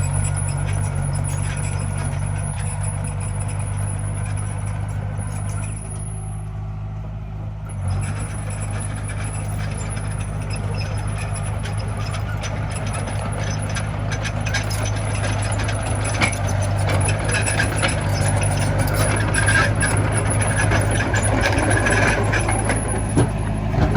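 A Komatsu mini bulldozer's diesel engine running steadily, with clanks and knocks from the machine at work, busier in the second half.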